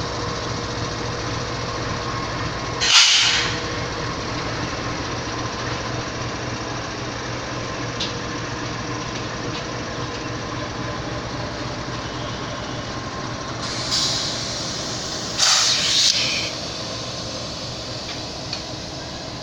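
Pakistan Railways goods train running with a steady rumble and hum, with short louder bursts of hiss about 3 s in and again twice near 14 to 16 s.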